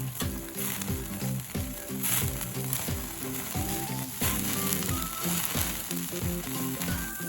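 Slices of pork belly sizzling as they fry over a campfire, a steady hiss, under background music with a regular beat.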